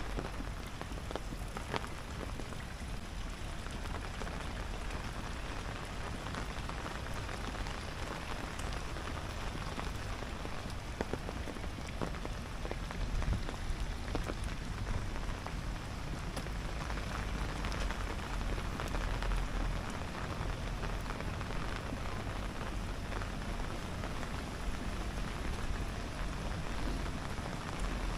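Steady rain falling, with scattered sharper drop hits ticking through the patter.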